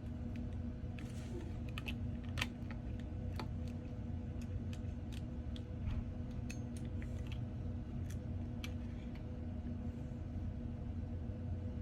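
Small tools clicking and scraping against the parts of a disassembled iPhone 14 as a stuck component is probed and pried, a dozen or so light, irregular ticks over a steady low electrical hum.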